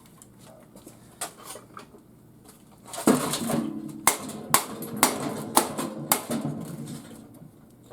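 Six sharp metal strikes about half a second apart, each leaving a ringing tone, as a metal part of a garage door opener is knocked to break it off. A few lighter clicks come before them.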